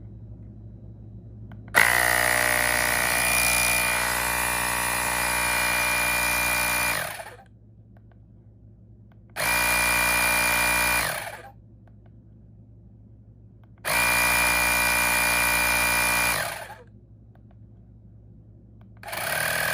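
Fanttik X8 Apex battery-powered portable tire inflator's compressor running with a steady mechanical whine, switched on and off in separate runs. The first run lasts about five seconds, the next two about two seconds each, and a fourth starts near the end.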